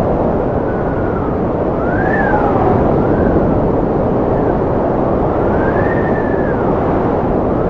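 Strong wind blowing with a steady low rush and a whistling howl that rises and falls in pitch every second or two.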